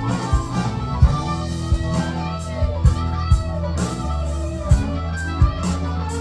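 Live band playing an instrumental passage without vocals: guitar over a steady bass and drum beat.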